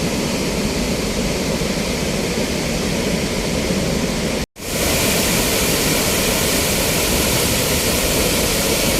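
Roar of Athirapally waterfall close up: a loud, steady rush of falling water that cuts out for an instant about halfway through, then resumes.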